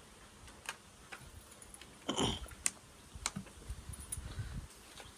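Scattered light clicks and taps of hands handling food and leaves at a cooking pot, with a louder rustle about two seconds in.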